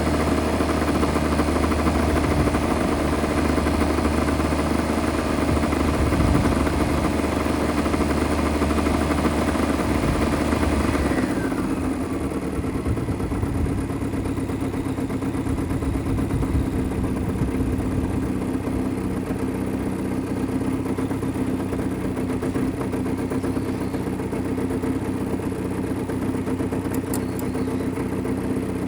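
Mitsubishi Minica 360 GSS's 360 cc two-stroke twin engine running at raised revs, then dropping back about eleven seconds in and settling to a steady idle.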